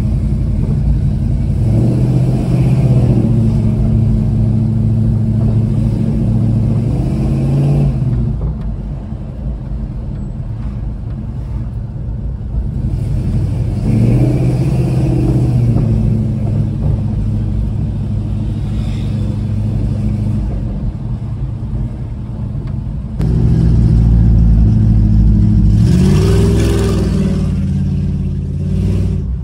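1970 Dodge Charger's engine and exhaust heard from inside the cabin while driving. It pulls up through the revs three times, its pitch climbing with each pull and dropping back, with steadier cruising between; the last pull, from a little past the middle, is the loudest.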